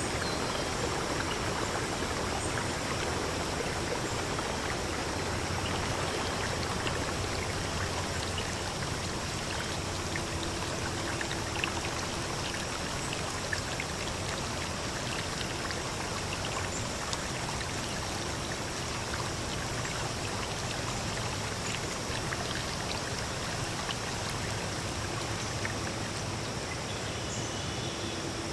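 Steady rushing of a forest stream, with a few faint high chirps or ticks above it.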